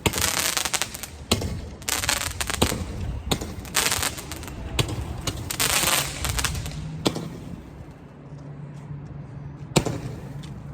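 Consumer fireworks going off: a rapid series of bangs and crackling bursts for about seven seconds, then dying down, with one last sharp bang near the end.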